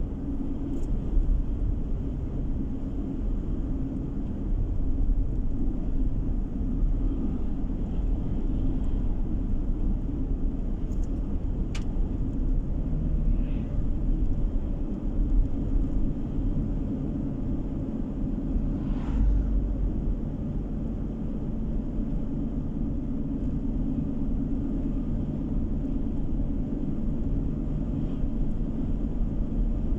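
Steady road and engine rumble of a car driving, heard from inside the cabin, with a single faint click about twelve seconds in.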